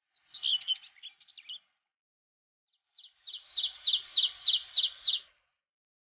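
A songbird singing two phrases of quick, high notes. The second, longer phrase is a steady trill of repeated notes, about five a second.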